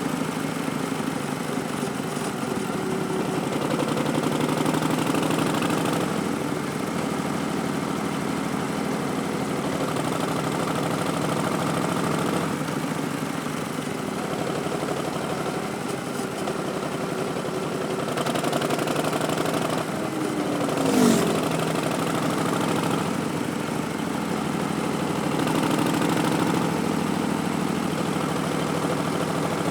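Harley-Davidson Street Bob's Milwaukee-Eight V-twin running through a Vance & Hines Twin Slash slip-on exhaust while riding, the engine note rising and falling with throttle. About two-thirds of the way through there is a brief louder falling sweep.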